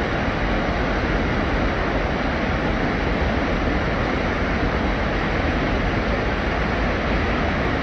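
Steady rushing of a mountain valley stream mixed with rain, an even, unbroken sound.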